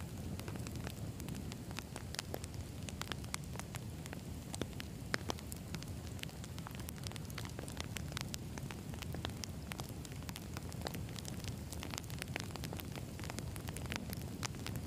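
Campfire of burning firewood crackling, with many small irregular pops and snaps over a low steady rumble of the flames.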